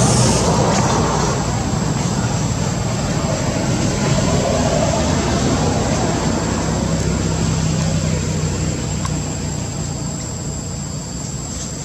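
Steady low rumble of a motor vehicle engine, easing off slightly near the end, with a thin, high, steady whine over it.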